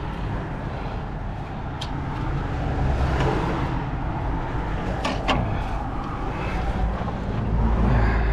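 Steady low rumble of a motor vehicle's engine running, growing stronger near the end, with two sharp clicks about two and five seconds in.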